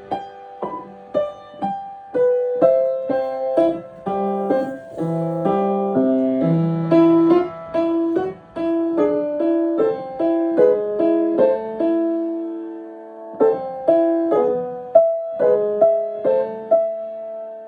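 Piano being played: a melody over chords in separate struck notes, pausing for about a second near two-thirds of the way through, then ending on a held chord.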